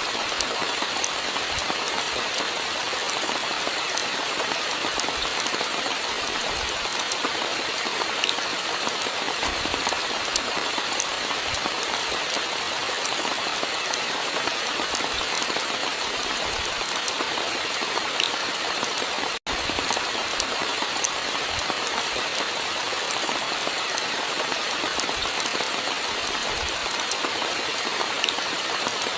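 Steady rainfall, an even hiss with many individual drops ticking sharply on a surface. It cuts out for an instant about two-thirds of the way through.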